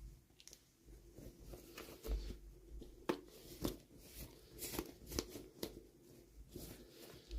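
Toy packaging and small plastic pieces being handled: irregular rustles, taps and sharp clicks, the loudest a few seconds in.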